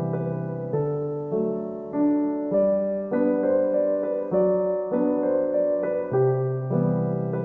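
Background piano music: slow chords and notes struck about every half second to second, each fading before the next.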